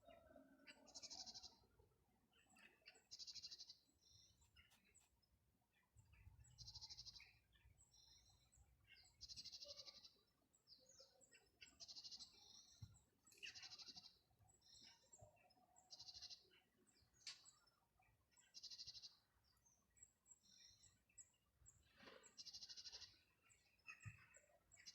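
Faint bird song: a short, high trill repeated every two to three seconds, with other small chirps between.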